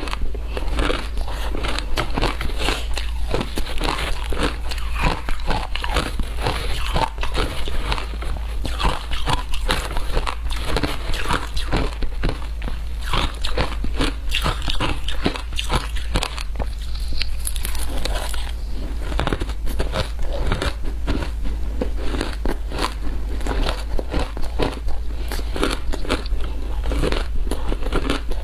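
Frozen matcha ice being bitten and chewed up close, a continuous run of sharp, irregular crunches and crackles. A steady low hum sits under it.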